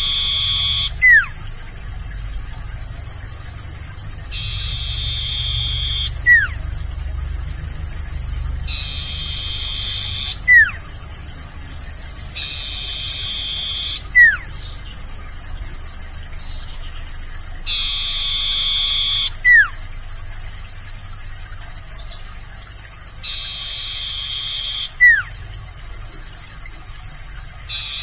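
A sirtu owl calling over and over, about every four to five seconds. Each call is a buzzy, hissing note about a second and a half long, followed by a short, sharp, falling whistle.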